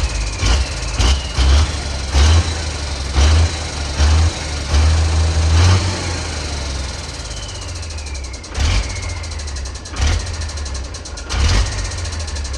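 Ford D-series 1314 turbocharged truck engine running, revved in a string of short blips. Twice a whistle falls in pitch after a rev as the turbo winds down.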